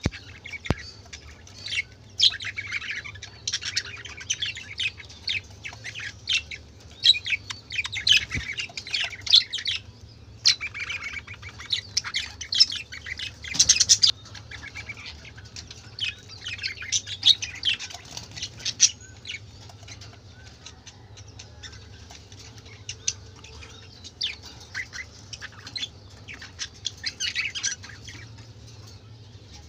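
A flock of pet budgerigars chattering, a dense run of short high chirps, warbles and squawks, busiest in the first half.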